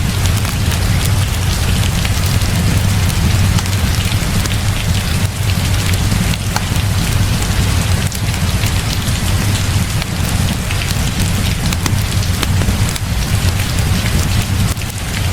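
Heavy rain falling steadily, with a deep low rumble underneath and scattered sharp ticks through it.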